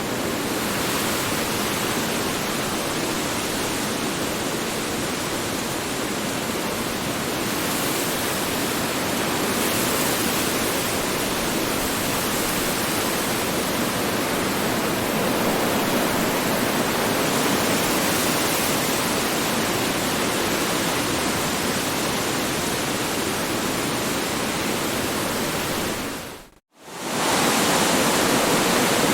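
Strong wind rushing steadily, a dense even roar spread across all pitches. About 26 seconds in it fades quickly to silence and then swells straight back, slightly louder.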